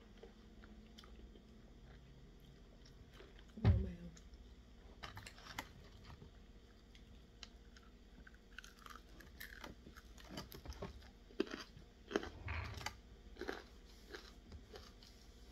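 Close-up chewing and biting as fried chicken wings and fries are eaten, with scattered short crunches and mouth clicks. About four seconds in there is one loud, dull thump.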